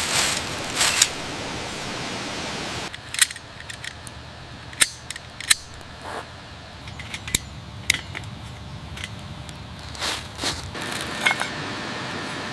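Stone and wood being handled: a rough scraping noise for the first three seconds or so, then scattered sharp clacks and knocks, several of them close together near the end.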